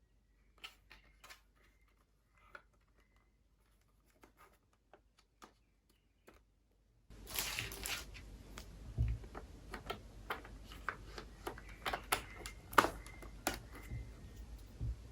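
Hands unpacking and handling a small fan and its packaging: sparse light clicks and rustles. About seven seconds in, a steady hiss with a low hum begins and the clicks grow louder and more frequent.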